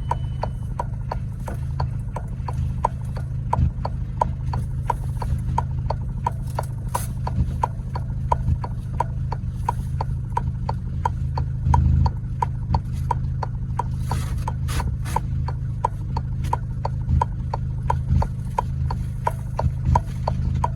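Car engine idling with a steady low rumble, with an indicator relay clicking evenly about three times a second over it. A brief rustle of handling comes about two-thirds of the way through.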